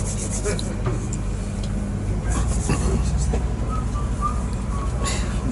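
Low, steady rumble of a moving passenger train heard from inside the carriage, growing louder about two seconds in.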